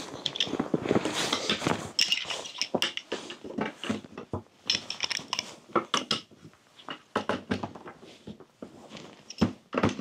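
Irregular handling noises: rustling with scattered light clicks and knocks, as of things being moved about and set down.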